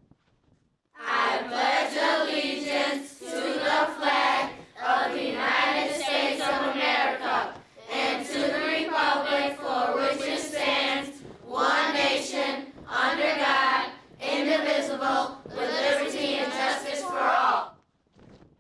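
A group of children singing together, in phrases of one to two seconds with short breaths between them.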